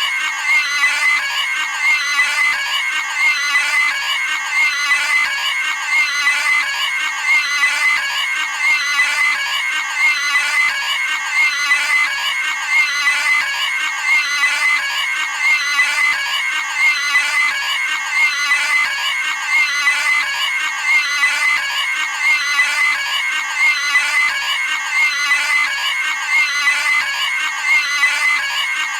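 Cartoon pig screaming: a high-pitched squeal sound effect repeated back to back in an unbroken loop.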